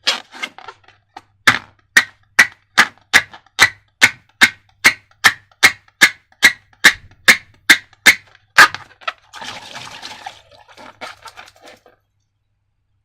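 A run of sharp, evenly spaced clicks, about two and a half a second, then a short rustling hiss and a few faint crackles that die away.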